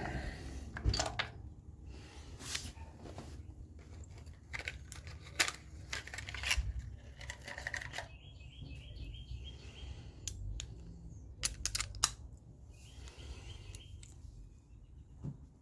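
Metal hand tools clinking and clicking as a ratchet and spark plug socket are worked during a spark plug change, with scattered sharp clinks and two short runs of fast ratchet clicking.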